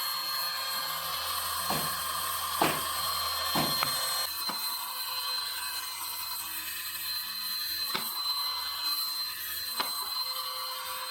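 Small DC motor of a homemade toy running at a steady high-pitched whine, with a few sharp clicks about two to four seconds in.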